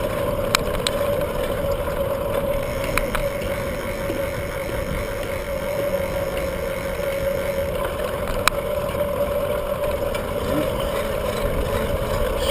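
Bicycle riding noise: wind rushing over the microphone with tyre and road rumble, a steady hum under it, and a few sharp clicks, one about half a second in and another near the middle.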